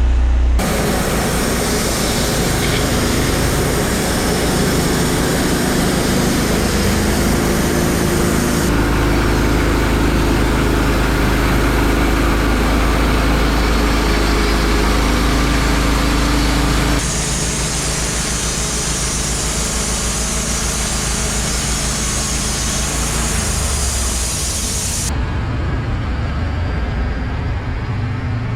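Wood-Mizer LT15 Wide band sawmill running under load, its engine droning steadily with a high hiss as the blade saws through a hemlock log. The sound shifts abruptly about 9, 17 and 25 seconds in, with the hiss dropping away near the end.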